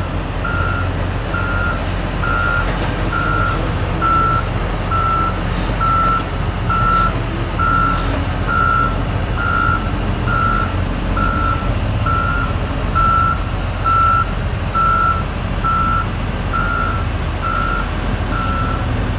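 Backup alarm of a John Deere skid steer loader beeping steadily, a little over once a second, as the machine reverses. The diesel engine runs underneath.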